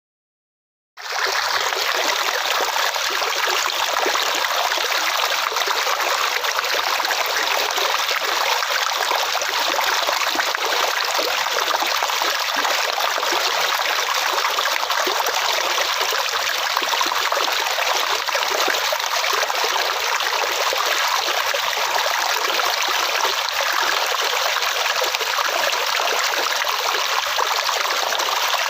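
Flowing water running steadily: an even, bright rush with little low end, starting about a second in out of silence.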